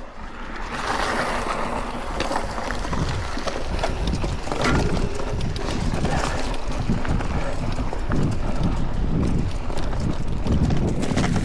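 Mountain bike tyres rolling over a rough, stony dirt trail, with a steady crunching rush and many small clattering knocks.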